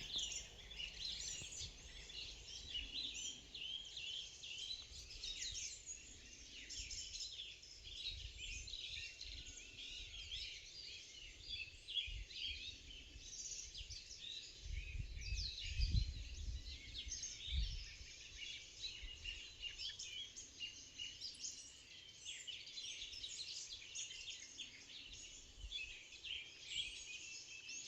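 Morning chorus of many songbirds singing at once: dense, overlapping chirps and trills with no pause. A low rumble comes in about halfway through.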